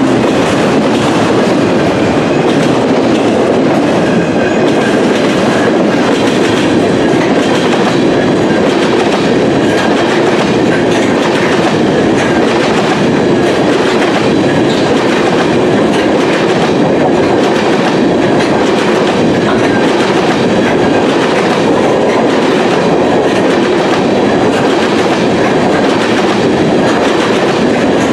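Freight cars of a long mixed freight train rolling past, first autoracks and then covered grain hoppers: steel wheels on rail making a loud, steady rumble and clatter.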